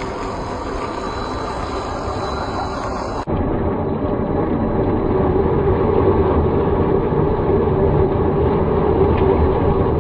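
Land Rover running with a steady vehicle rumble. An abrupt cut about three seconds in leads to a louder, steadier stretch of the same kind of sound.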